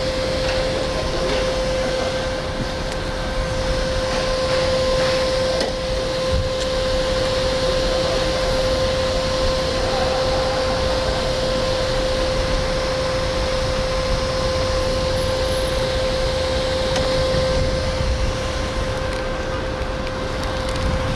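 Motorcycle engine idling, a steady whirring hum with a constant whine held over it.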